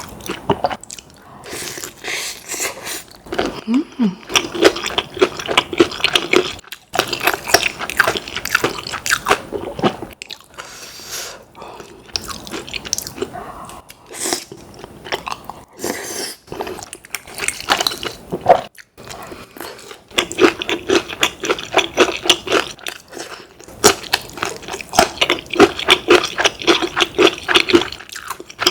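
Close-miked eating: crunching and chewing of food in repeated bouts, with short pauses between them.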